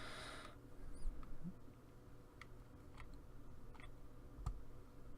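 A few faint, sharp clicks about a second apart, the kind a computer mouse makes while clicking through settings menus, over a low steady hum.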